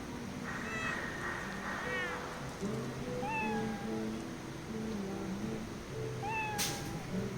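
A cat meowing several short, high calls over steady background music, with a brief sharp noise near the end.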